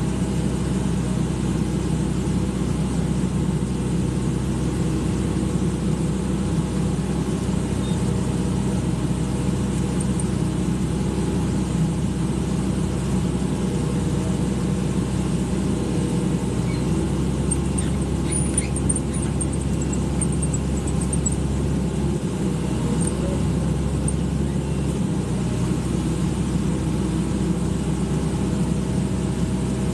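Excavator's diesel engine running steadily, a low, even drone that holds one pitch.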